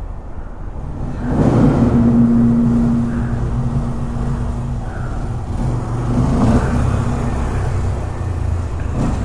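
A Honda Grom's small single-cylinder engine revving and accelerating as it is ridden around inside a concrete parking deck, over the steady low rumble of a motorcycle engine idling close by. The revs climb sharply about a second in and swell again around six and a half seconds.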